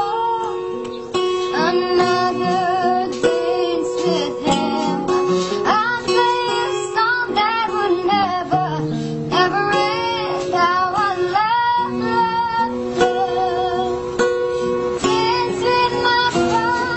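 A child singing a melody with vibrato and ornamented slides, accompanied by a plucked, strummed guitar.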